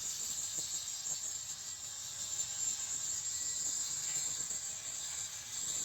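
Steady, high-pitched insect chirring, like crickets, with no sharp impacts or machine rhythm.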